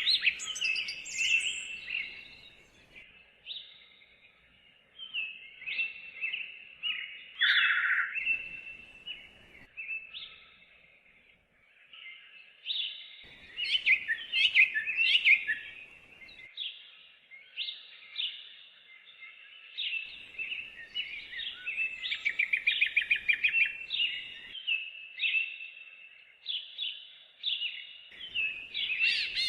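Woodland songbirds singing and chirping, short calls overlapping closely, with a few brief lulls and a rapid trill about two-thirds of the way through.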